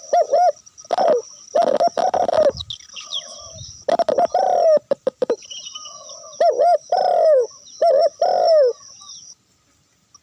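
Dove cooing: repeated short, arched coo notes in quick clusters, with sharp clicks between them. A steady high-pitched buzz runs underneath and stops near the end.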